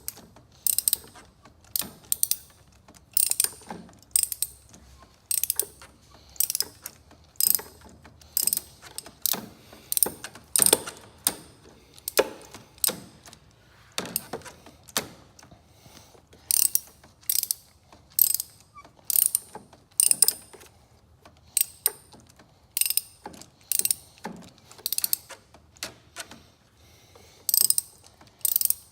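Hand ratchet on a spark plug socket clicking in short repeated strokes, about one a second, each stroke a quick run of pawl clicks as the plug is turned into the cylinder head.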